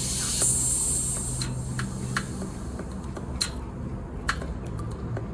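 Close-miked eating sounds: a brief rustle at the start, then chewing with scattered sharp clicks of lips and mouth, about half a dozen spread over the few seconds.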